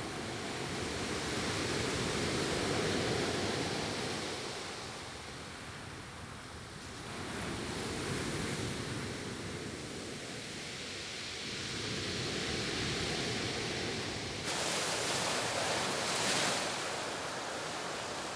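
Sea surf washing in and out, swelling and fading every few seconds, with a louder hissing wash from about fifteen to seventeen seconds in.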